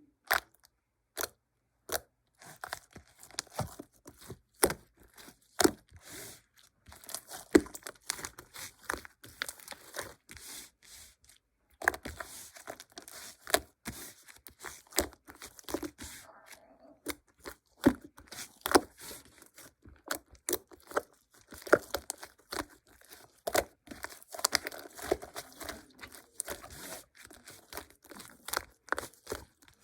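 Close, irregular crinkling, crackling and tearing of material being handled, full of sharp clicks, starting about two seconds in and briefly pausing partway through.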